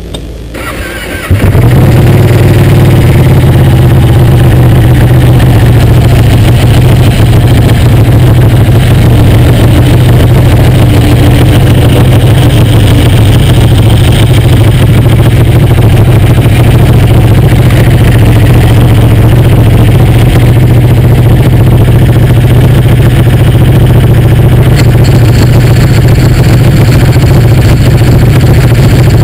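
Motorcycle engine idling steadily right at the microphone, so loud that the recording is overloaded and distorted. It gets much louder about a second in, then holds at one even level.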